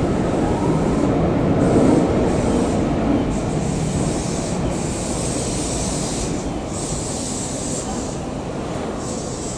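Tokyo Metro 7000 series electric train rolling along the station platform and slowing to a stop, its running noise fading gradually, with a thin high hiss that comes and goes.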